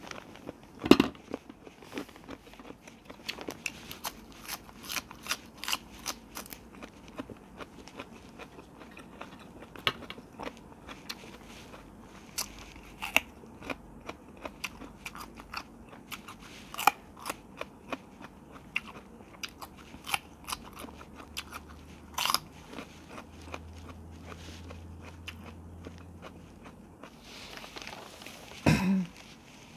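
Close-up crunching and chewing of raw vegetables, carrot and leafy greens: many sharp, irregular crunches. A short louder sound comes near the end.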